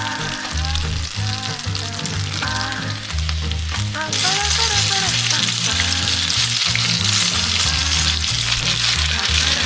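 Flour-and-curry-coated fish fillets and wings frying in hot oil, a steady sizzle that gets louder about four seconds in. Background music with a repeating bass line plays throughout.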